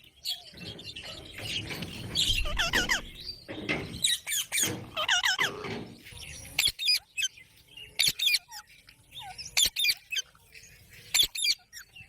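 Green parrot calling: a run of chirps and squawks in the first half, then short, sharp shrieks, one every second or so.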